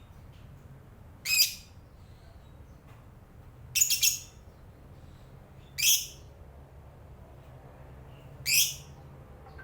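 Lovebird giving short, high-pitched calls, four in about eight seconds, the second a quick double call.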